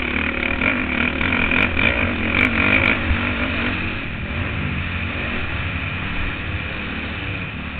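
Motocross bike engine heard from an on-board camera, pulling harder in the first three seconds with a few sharp clicks, then easing off a little.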